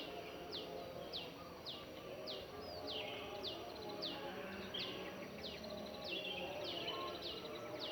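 Birds singing in the open: one bird repeats a short, sharply falling whistle about twice a second, over a fainter background of lower calls.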